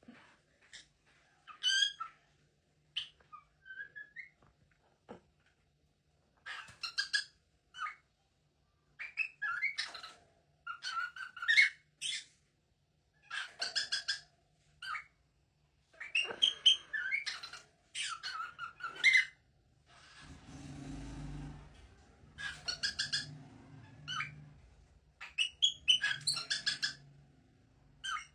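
Parrot chirping and whistling in quick clusters of short, sliding calls, repeated every second or two. About two-thirds of the way through, a low rumbling noise runs for about two seconds beneath the calls.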